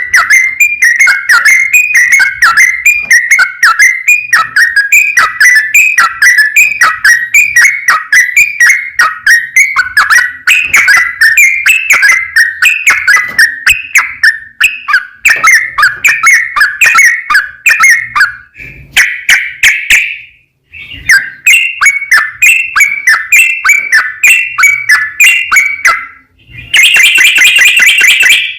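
Yellow-vented bulbul (trucukan) singing a long, unbroken run of rapid, liquid whistled notes in full voice, the 'ropel panjang' song used as a lure to make other bulbuls answer. It breaks off briefly about twenty seconds in, then a faster, denser burst comes near the end before it cuts off suddenly.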